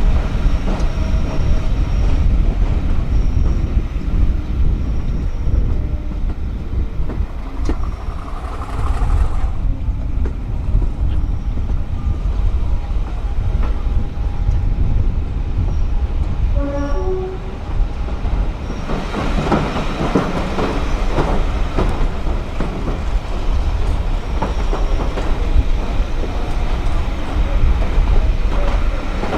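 A heritage train on the East Lancashire Railway running along the line: a steady low rumble of the carriages, with the wheels clattering over rail joints more busily about two-thirds of the way through.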